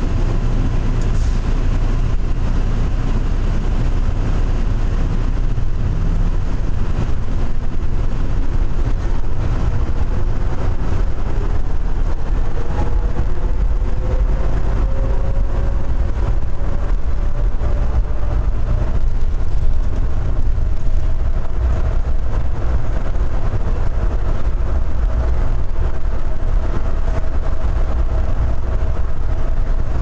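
Denver airport's automated concourse train running through its tunnel: a steady low rumble with an electric motor whine that climbs in pitch through the first half as the train speeds up, then holds steady.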